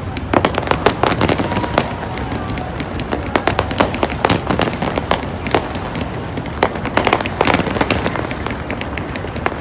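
Fireworks going off: a dense string of sharp bangs and crackling pops in clusters, over a steady low rumble.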